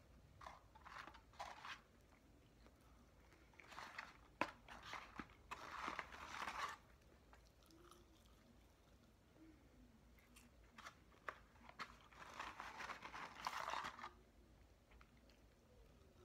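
Quiet close-up chewing of McDonald's french fries, coming in three spells with sharp little crunches and clicks, mixed with fingers rustling in the paper fries carton.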